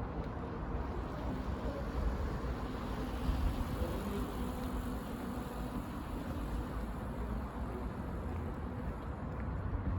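Steady low rumble of distant road traffic, swelling slightly a few seconds in.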